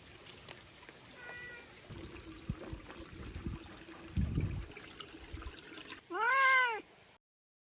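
A cat meowing once, loud and drawn out, its pitch rising then falling, near the end. Before it come faint low thumps and rustling.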